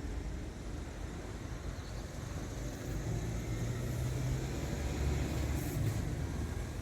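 Scania R500 tractor unit's 13-litre straight-six diesel engine running with a low, steady rumble, its pitch shifting slightly a few seconds in, with wind noise on the microphone.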